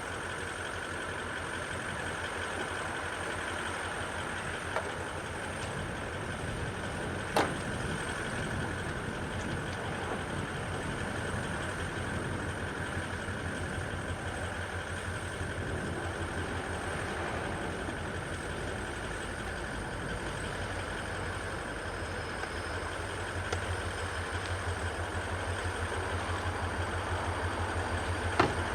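An engine idling steadily with a low, even pulse, growing louder over the last few seconds. A few sharp clicks or knocks sound over it, the loudest about seven seconds in.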